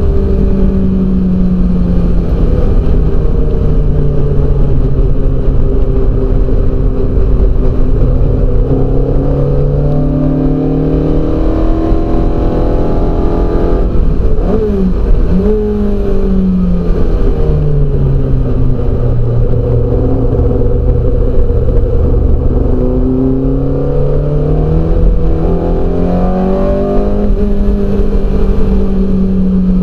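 TVR Vixen's four-cylinder engine heard from inside the car at racing speed, pulling hard through the gears. The revs climb, fall sharply about halfway through with a couple of quick blips on the downshifts, then climb again on the next straight.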